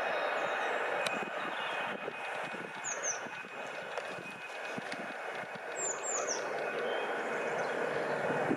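A train running past on the line: a steady rush of wheel and rail noise. A bird gives quick runs of short falling chirps over it, about three and six seconds in.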